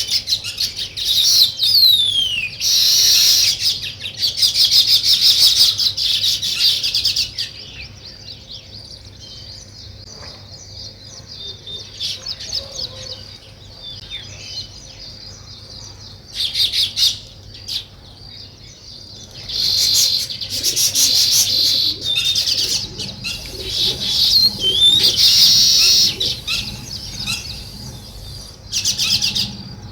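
Weaver birds chattering in rapid, high chirps that come in loud spells several seconds long, with a quieter stretch through the middle.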